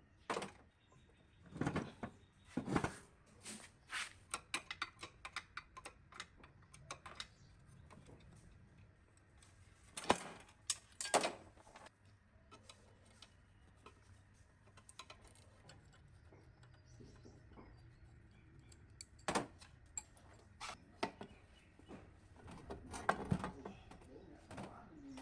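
Small metal parts and hand tools being handled while working on the rusted mixer, making irregular clicks and knocks. A quick run of light ticks comes a few seconds in, and a few louder knocks follow later.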